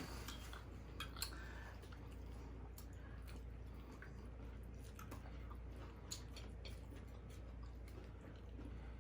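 A person chewing food quietly, with small scattered mouth clicks over a low steady hum.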